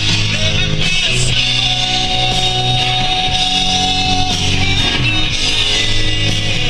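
Rock music with guitar playing, including one long held note in the middle.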